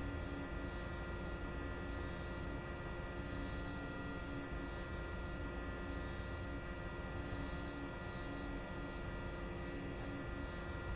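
A steady mechanical hum: low rumble under several steady whining tones and a light hiss, unchanging throughout.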